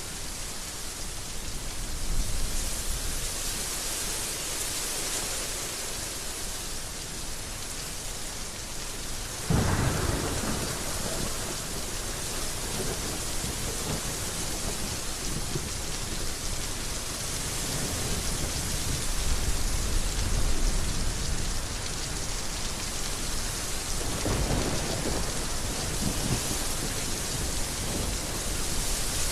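Heavy rain falling steadily, with a sharp thunderclap about a third of the way in that rolls on as a low rumble, and a second, softer roll of thunder near the end.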